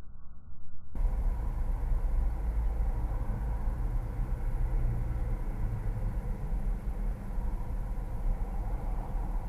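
Steady low rumbling background noise that starts abruptly about a second in, with no distinct events in it.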